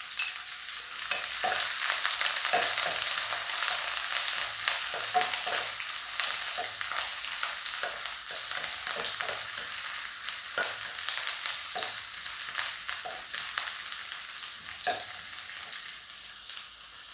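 Sliced shallots and dried red chillies sizzling in hot coconut oil in a wok, with scattered crackles and the scrape of a spatula stirring them. The sizzle eases slightly near the end.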